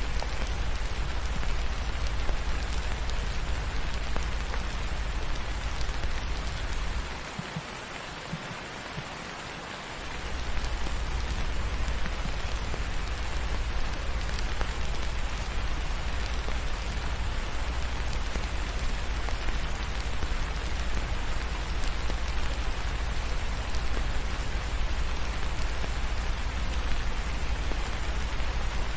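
Steady rain falling, an even hiss with a deep low rumble beneath it. The rumble drops away for about three seconds around seven seconds in, then returns.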